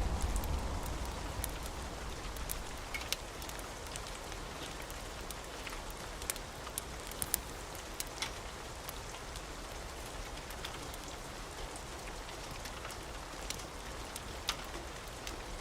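Steady rain with occasional sharp clicks and pops. The tail of a low thunder rumble dies away in the first couple of seconds.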